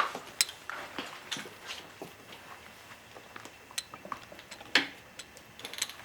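Scattered metallic clicks and clinks of 22 mm sockets and wrenches being handled and fitted onto a motorcycle's swing arm pivot bolt and nut. The loudest knocks come at the start and about five seconds in.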